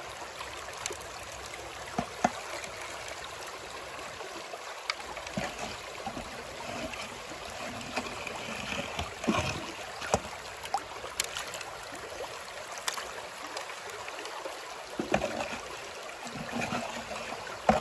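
Creek water running and trickling through a gold sluice box, with scattered short knocks and clicks over the steady flow.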